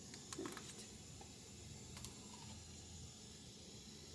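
Quiet room tone, a faint steady hum and hiss, with a few soft clicks near the start and about two seconds in.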